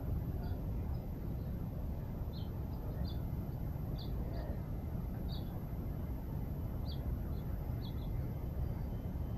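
Small birds chirping: a dozen or so short, high chirps at uneven intervals over a steady low rumble.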